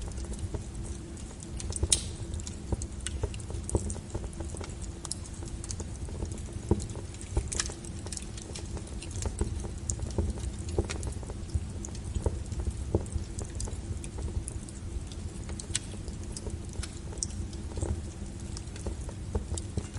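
Wood fire crackling: irregular sharp pops and snaps, one louder pop about two seconds in, over a low steady rumble of the burning logs.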